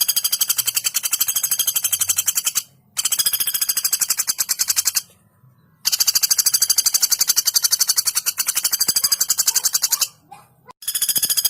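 Female pelatuk bawang woodpecker giving long, fast rattling call series of evenly spaced, high notes. It calls three times, pausing briefly between, and starts a fourth near the end.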